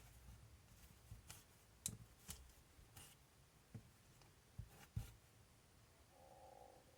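Light clicks and taps of small RC shock parts being handled at a workbench, about seven scattered ones, followed near the end by a brief faint squeak-like tone.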